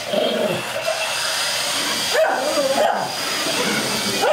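Shih Tzu barking and yipping in short bursts at a remote-control toy car, over a steady high-pitched whine that fits the toy car's electric motor.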